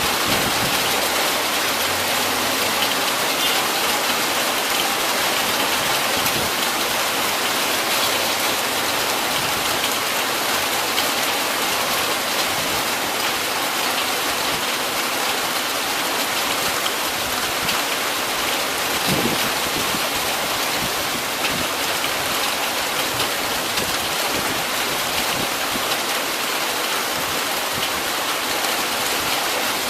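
Heavy rain pouring steadily, a dense even hiss, with a single short low thud about two-thirds of the way through.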